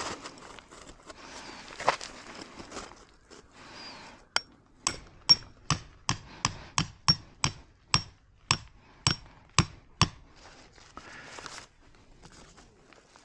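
Hammer driving a tent peg into the ground: about fifteen sharp strikes, roughly two a second, each with a short high ring. They start about four seconds in, after some rustling and footsteps.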